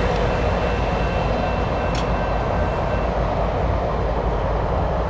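Freight train rolling on the rails as it moves away, a steady low rumble. Faint high whines ride on it and stop about three seconds in.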